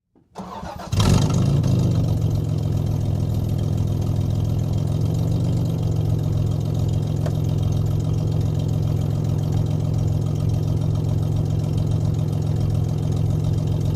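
Vehicle engine started, catching about a second in with a brief rise in speed, then idling steadily. The exhaust has no catalytic converters but still runs through its muffler.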